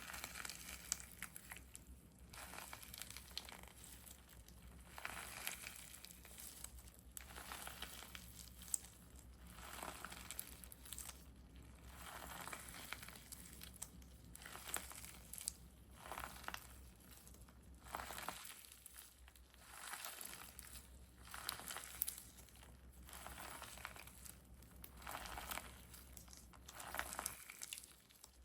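Handmade squishies being squeezed and pressed by hand, a soft crinkling rustle with each squeeze, repeated every second or two.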